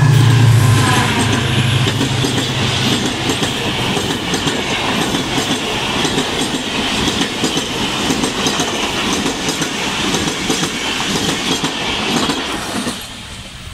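HGMU-30 diesel locomotive passing close at speed, its engine hum fading over the first few seconds. Passenger coaches follow, clattering over the rail joints with a steady rattle that fades as the last coach goes by near the end.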